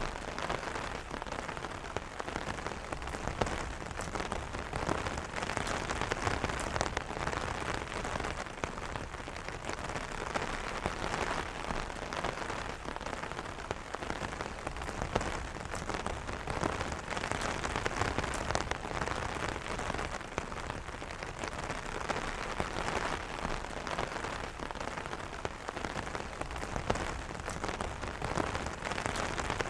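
Steady rain pattering on an umbrella canopy, with a dense spread of individual drop taps over a constant hiss.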